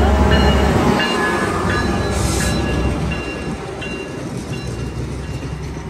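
A Metra diesel locomotive runs past with a heavy low rumble, then its double-deck commuter cars roll by as the train arrives at the platform, growing quieter. Thin high squeals sound through it, with a short hiss about two seconds in.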